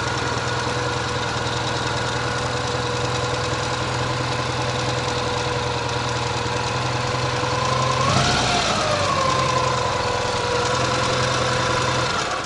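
Ural sidecar motorcycle's flat-twin engine running steadily on the road, its pitch briefly rising and falling about eight seconds in. The rider half-suspects the left cylinder of an occasional hiccup, though everything seems to run.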